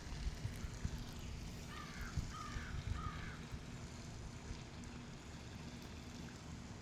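A bird gives three harsh calls in quick succession about two seconds in, over a steady low rumble.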